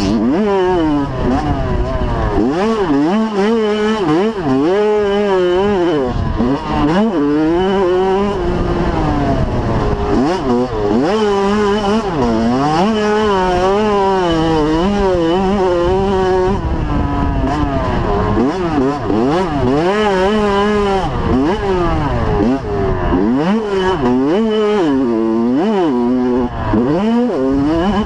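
85cc two-stroke motocross bike engine revving hard, its pitch climbing and dropping back again and again as the throttle is worked around the track.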